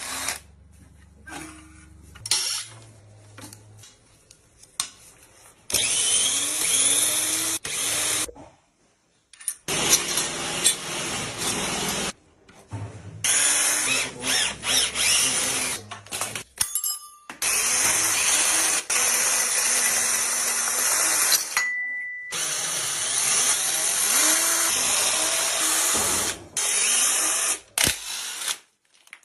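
A power tool running in repeated bursts of a few seconds, its whine rising and falling, broken by abrupt cuts.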